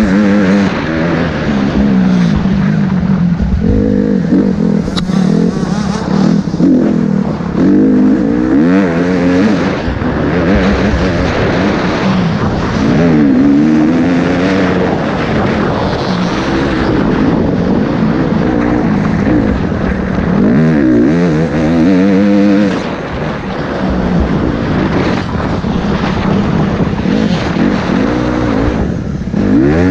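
Motocross bike engine revving hard and continuously under riding, its pitch climbing and dropping again and again with the throttle and gear changes.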